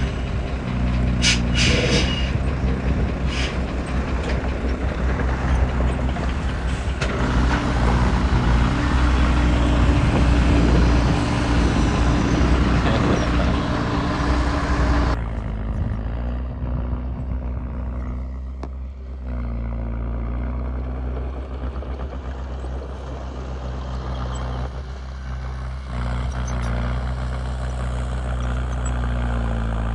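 Heavy diesel machinery engine running steadily, with a loud rushing, hissing noise over it that cuts off suddenly about halfway through. A few sharp clicks sound in the first few seconds.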